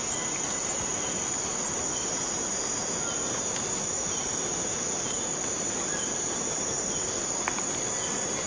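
Steady rainforest rain falling, under a continuous high-pitched insect drone and a higher insect chirp that pulses in a steady rhythm.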